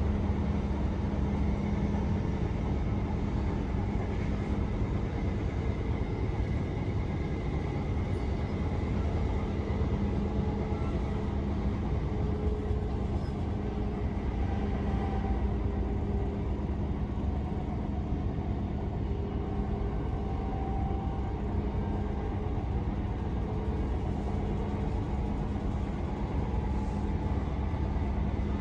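c2c electric commuter train running at speed, heard from inside the carriage: a steady low rumble with a constant hum and faint whining tones that drift slowly in pitch.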